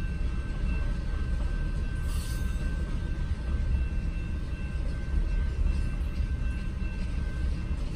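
Covered hopper cars of a CP Rail freight train rolling steadily over a road crossing, a continuous low rumble of wheels on rail, heard muffled from inside a stopped car. A faint, steady high ring runs over it.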